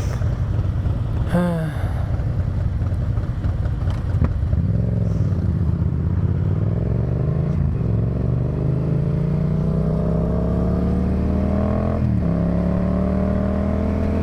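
Yamaha FZ-07 motorcycle's parallel-twin engine under steady acceleration, its pitch climbing from about four seconds in, dropping at an upshift about twelve seconds in, then climbing again.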